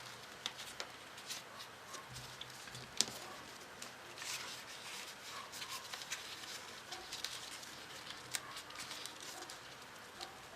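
Folded origami paper being handled, rustling and crinkling with irregular light clicks and taps as the pieces are folded and fitted together.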